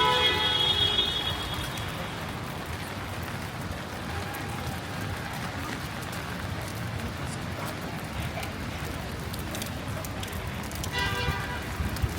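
Heavy rain falling steadily on a city street, an even hiss with a low rumble underneath. A brief pitched sound rises over it at the start and again just before the end.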